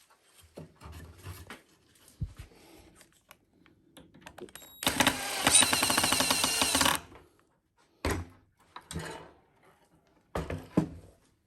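Light clicks and knocks of wood and tools being handled, then an electric drill runs steadily for about two seconds in the middle, followed by a few more sharp knocks.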